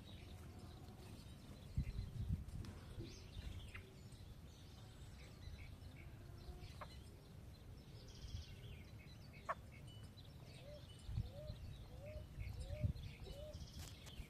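Birds feeding, with scattered faint short chirps and calls and a run of five short, low, upward-hooked calls near the end. Several soft low thumps come about two seconds in and again toward the end.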